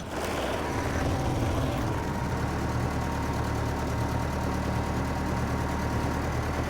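Massey Ferguson MF 300 crawler dozer's engine idling, settling into a steady idle about two seconds in.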